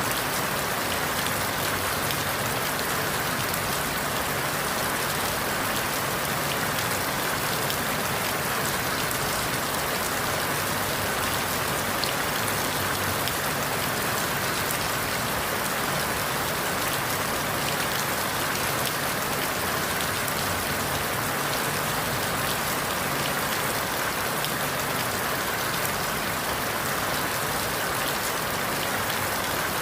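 Steady rain falling on forest leaves: an even hiss of many fine drops, unchanging throughout.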